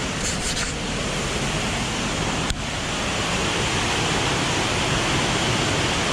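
Waterfall rushing steadily with rain-fed water, with one short click about two and a half seconds in.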